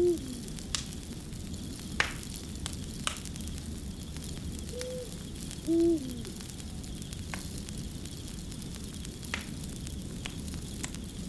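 Crackling fire: a steady sizzling hiss with scattered sharp pops. Short, low, pitched calls come at the start and twice about five to six seconds in, each falling off at the end; they are the loudest sounds in the mix.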